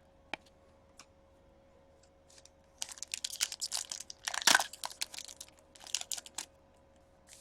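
A trading card pack's wrapper being torn open and crinkled by hand, in a run of crackly rustles that peaks about halfway through, after a couple of small clicks.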